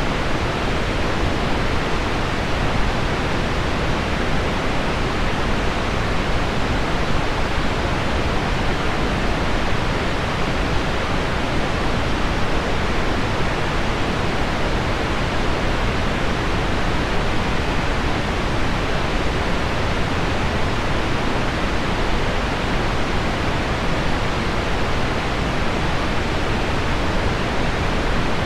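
Heavy rain on window glass blended with low pink noise, forming one steady, even hiss in which no separate drops stand out.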